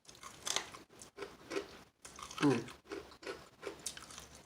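Close-up chewing of crispy fried chicken wings: irregular crunches of the breaded skin between the teeth, with a short hummed "mm" about halfway through.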